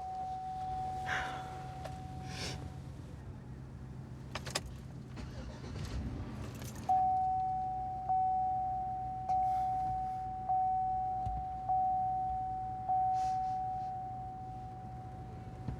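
Car warning chime: a steady tone that stops, a few clicks and a jingle, then six dings a little over a second apart, each fading, over the low hum of the car.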